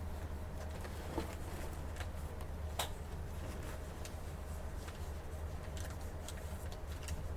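Interior running sound of an Isuzu Erga city bus (PKG-LV234N2): a steady low diesel drone heard from inside the cabin, with scattered small rattles and ticks from the interior, one sharper click about three seconds in.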